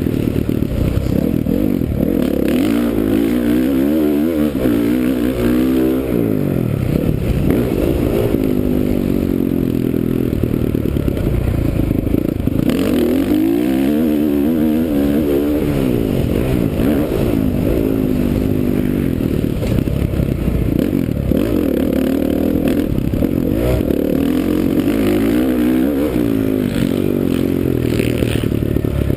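2009 Honda CRF450R's single-cylinder four-stroke engine racing around a motocross track, revving up and falling away repeatedly as the rider works through the throttle and gears, with rattling and clatter from the bike over the rough track.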